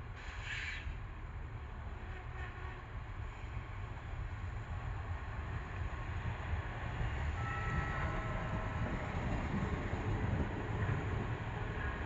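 Train running at a railway station, its low rumble growing louder, with a brief hiss just after the start and a few faint high tones about two-thirds of the way through.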